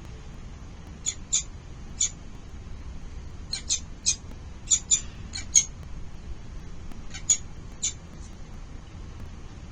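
Falcons calling in the nest: short, sharp, high-pitched calls in quick groups of two or three, about fourteen over several seconds, over a steady low background noise.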